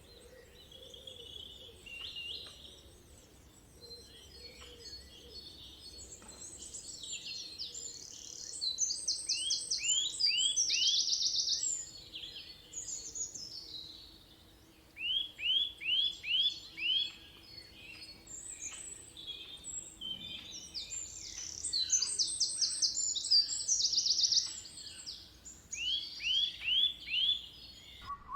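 Several birds singing and calling together, with fast high trills and repeated runs of five or six short sweeping notes. The calls are loudest in the middle and again in the second half.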